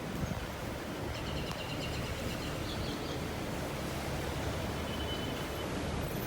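Steady outdoor street noise: a low, even rumble of traffic and idling vehicles, with faint high tones about a second in.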